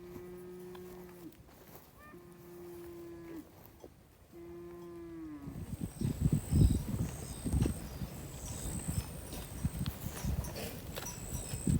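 Cattle mooing three times, each a steady held call of about a second and a half that drops at the end. After that come louder irregular low thuds and rumbles, with a thin high tone that comes and goes.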